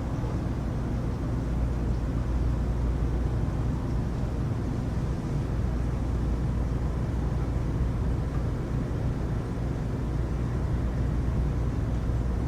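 Heavy rain falling: a steady low noise that stays the same throughout, with no thunderclap.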